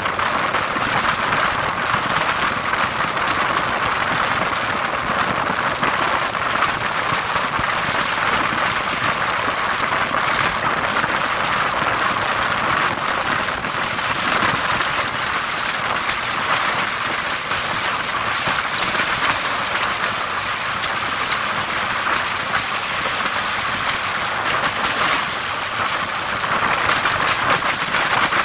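Steady rushing noise of a passenger train running at speed, heard from an open window: wheels on the rails and air rushing past the coach.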